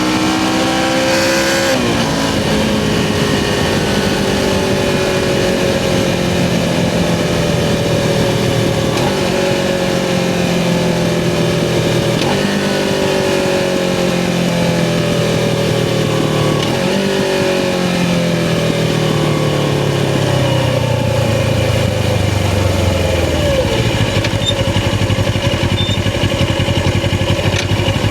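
Suzuki GS500's air-cooled parallel-twin engine under way, riding along. Engine pitch climbs and breaks for a gear change about two seconds in, then sinks slowly through the rest as the bike slows, with a few short breaks along the way. Wind and road noise run underneath.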